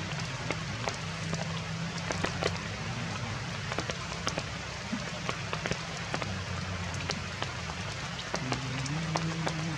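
Heavy rain falling: a steady hiss dotted with many sharp drop impacts.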